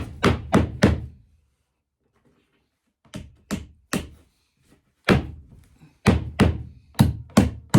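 Hammer driving nails into a wooden baseboard: sharp blows in short runs, three quick strikes, a pause of about two seconds, three more, then a steady run of about two blows a second.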